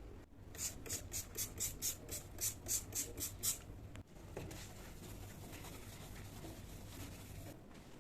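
A quick run of about a dozen hissy scratching strokes, about four a second, lasting some three seconds, over a faint steady low hum.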